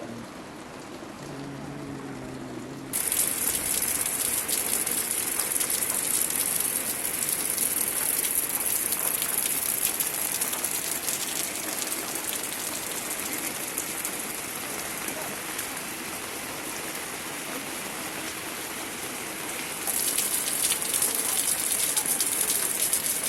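Heavy rain pouring down, a loud even hiss that starts abruptly about three seconds in, eases a little in the middle and comes back louder near the end. Before it there is softer rain with a brief faint voice.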